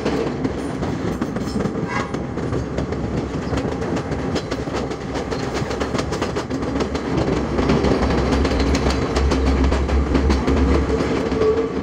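Passenger train running, heard from an open carriage door: a steady rumble with wheels clattering over the rails, growing louder in the second half.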